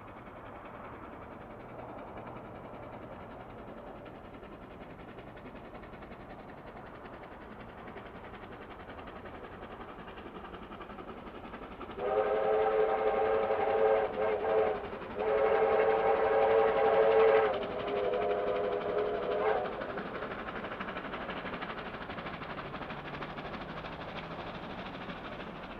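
Steam locomotive R761's whistle sounding in about three long blasts midway through, the last softer, over the steady running noise of the train.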